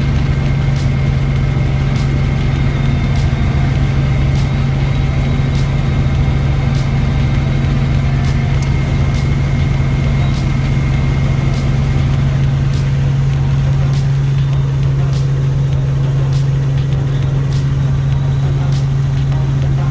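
Helicopter in cruising flight: a loud, steady drone built on a strong low hum, with faint regular ticks about once a second.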